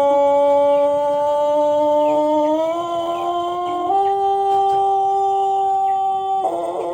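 Ayam pelung rooster holding one long, drawn-out crow, its pitch stepping up twice partway through. The crow breaks off near the end into a rough, rasping sound.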